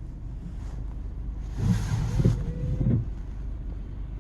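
Steady low rumble of a car's engine and tyres heard from inside the cabin while driving. There is a short murmur, like a voice, about halfway through.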